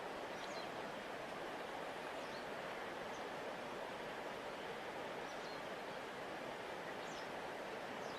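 Steady rushing of a river flowing past its bank. A few faint, brief high bird chirps come through here and there.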